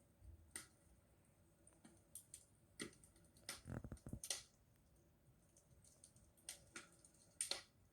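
Campfire crackling faintly: irregular sharp pops and snaps of burning wood, with a brief cluster of louder cracks about halfway through.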